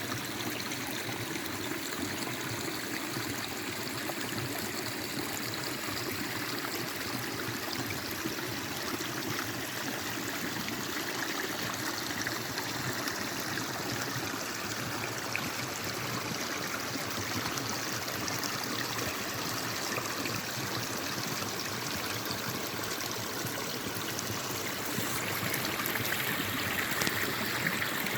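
Forest stream flowing, a steady babbling rush of water that grows a little louder near the end.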